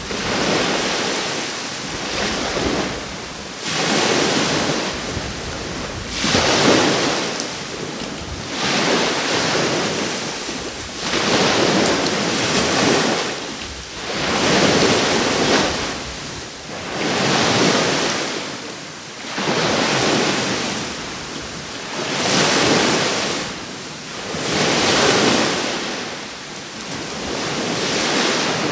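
Caribbean surf: waves breaking and washing onto the shore, the rush swelling and fading about every two to three seconds in a steady rhythm.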